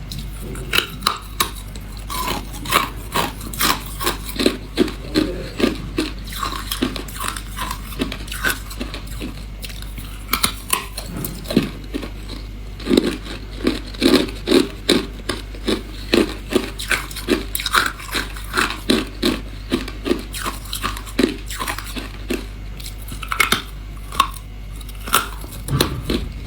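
A person biting and chewing hard clear ice close to the microphone: a dense, irregular run of sharp cracking crunches, several a second, over a steady low hum.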